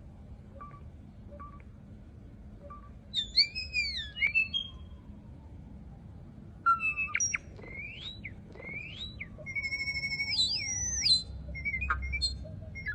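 Bird calls: a few faint short chirps, then loud whistled phrases that swoop up and down in pitch, one group about three seconds in and a longer run of sliding, looping whistles from about seven seconds in.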